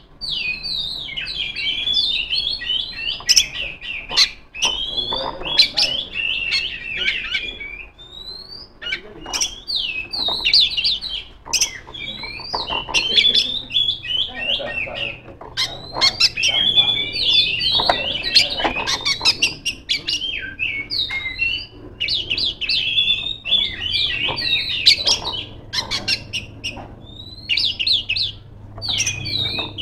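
Oriental magpie-robin (kacer) singing hard and nearly nonstop: fast runs of high, varied chirps, trills and whistles, packed with mimicked phrases of other birds, broken by a few brief pauses. It is a loud challenge song, calling out to a rival bird.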